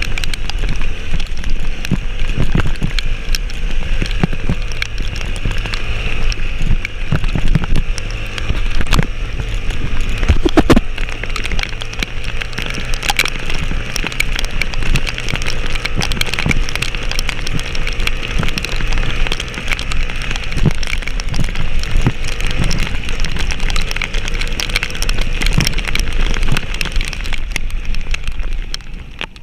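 Heavy rain pattering on surfaces close to the microphone, many sharp drops in a dense hiss, over the steady low running of a vehicle's engine.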